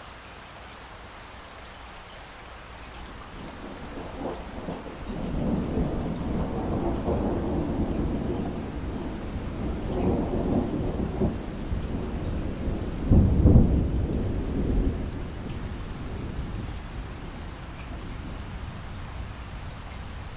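Steady rain with a long roll of thunder that swells a few seconds in and rumbles deep for about ten seconds. The loudest crack comes past the middle, then it fades back to the rain.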